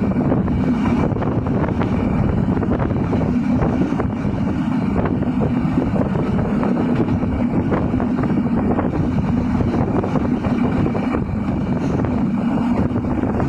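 Passenger train running steadily at speed: a continuous noise from the carriage and rails, with wind buffeting the microphone.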